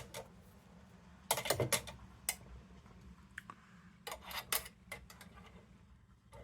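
Metal clicks and clinks of a vintage kerosene lantern's wire bail being swung back and forth against its mounts, in two clusters with a few single clicks between.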